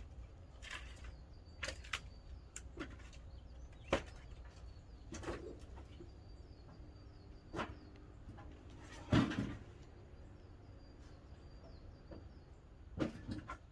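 Pine firewood burning in a wood-fired kiln: irregular sharp cracks and pops over a low steady rumble of the fire, the loudest crack about nine seconds in. Faint bird chirps repeat in the background.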